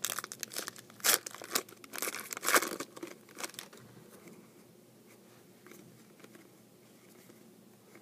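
Crinkling and rustling of a trading card pack's wrapper as the cards are handled, a quick run of crackles over the first few seconds that then dies away.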